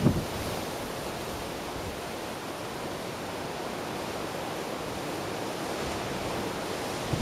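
Ocean surf washing on the coast, a steady, even hiss of breaking water.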